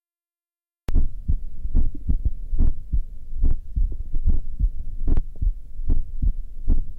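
Low muffled thumping in a quick, slightly uneven rhythm, about three beats a second, over a faint steady hum; it starts abruptly about a second in.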